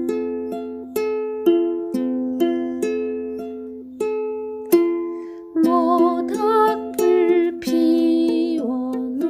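Ukulele playing strummed chords at an easy pace; about halfway through a wavering melody line joins over the chords.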